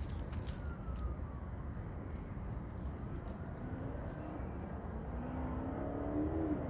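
Steady low rumble of outdoor background noise, with a motor vehicle's engine coming through about halfway in, rising in pitch and then dropping near the end.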